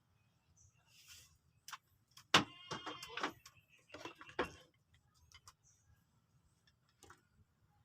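Metal parts being handled: scattered light clicks, then a sharp metallic clank about two and a half seconds in that rings briefly, followed by a few more knocks and clinks.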